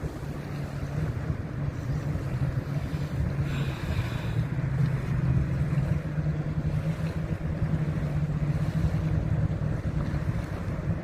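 Wind buffeting the microphone in a steady rumble over the wash of surf on a beach, with a brief faint higher sound about four seconds in.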